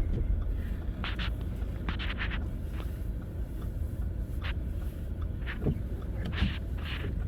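Car driving, with a steady low rumble of road and engine. Several brief hissing swishes rise above it.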